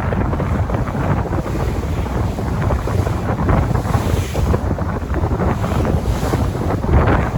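Sea waves washing, with wind buffeting the microphone: a continuous rushing with a heavy low rumble and swells of hiss every couple of seconds.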